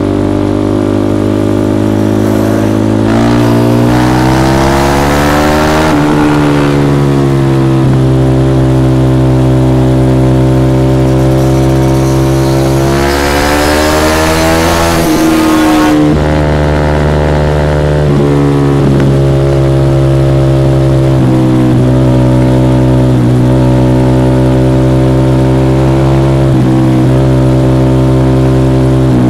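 Sport motorcycle engine heard from the rider's seat, running steadily at cruise. About 3 s and again about 13 s in, it climbs in pitch for about three seconds as the bike accelerates, with a rushing hiss over the top, then drops back to a steady note.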